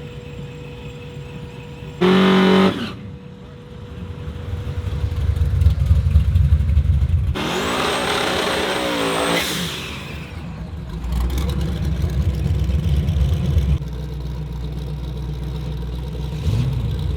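Car engines running, with a short loud car horn blast about two seconds in. Engine noise builds, and a car goes by in the middle, its pitch falling as it passes; engines then keep running steadily.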